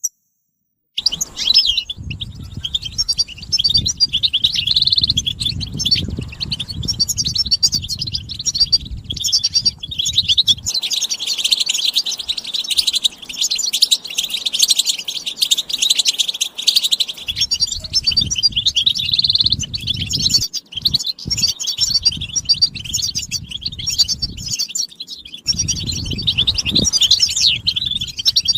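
A group of European goldfinches twittering and singing together: a dense, unbroken chatter of rapid high chirps and trills, starting about a second in. A low rumble comes and goes underneath.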